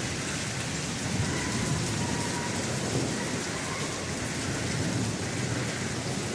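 Heavy, torrential rain pouring steadily, with a low rumble underneath.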